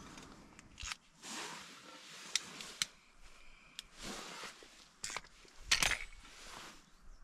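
Camp gear being handled: a few sharp clicks and clacks with short rustles between them, the loudest clack a little past halfway.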